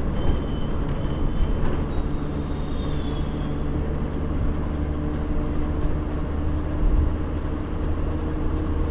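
A bus in motion: steady engine hum and road rumble, with a thin high squeal over roughly the first three seconds.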